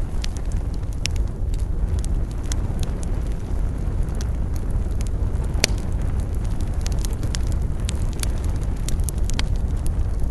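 Wood campfire crackling with frequent small irregular pops, over a steady low rumble. One sharper pop comes about halfway through.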